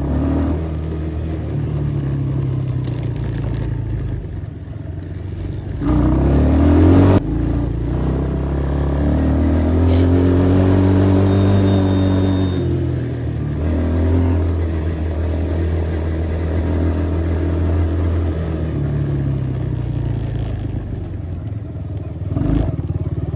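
Small off-road engines of a Yamaha 50 dirt bike and a 125 four-wheeler running and revving as they ride, the pitch rising and falling with the throttle. The loudest moment comes about six seconds in, and a little later one engine's pitch climbs and then drops.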